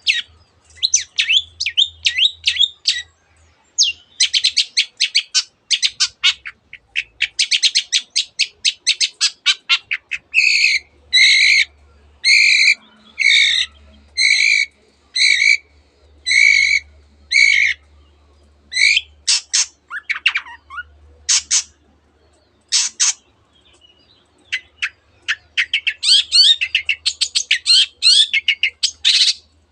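Long-tailed shrike (cendet) in full song, mixing rapid chattering trills with mimicked phrases such as canary song. In the middle it gives a run of about nine harsh, evenly spaced notes, roughly one a second, then a few sharp single notes, and the fast trills return near the end.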